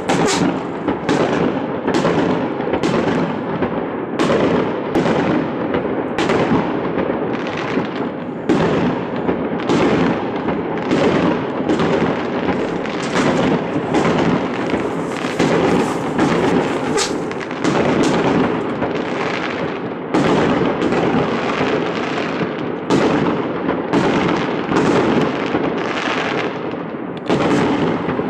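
New Year's fireworks going off in many places at once: aerial shells bursting in a dense, unbroken barrage of bangs, about one or two a second, over a continuous din of overlapping explosions and crackle.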